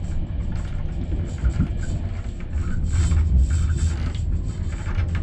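Low, steady rumble of a passenger train carriage running on the rails, heard from inside the coach, with background music over it.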